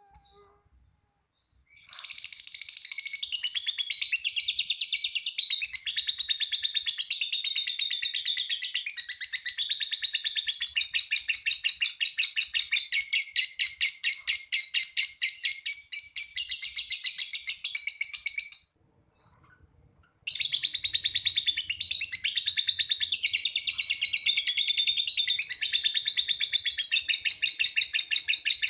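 Lovebird singing its long 'ngekek' song: a fast, unbroken chattering trill, high-pitched, that starts about two seconds in after a few short chirps, breaks off for a second and a half past the middle, then starts again.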